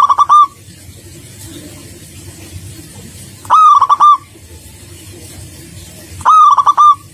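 Zebra dove (perkutut) cooing: three loud phrases about three seconds apart, each a quick rising note followed by a fast run of short repeated coos.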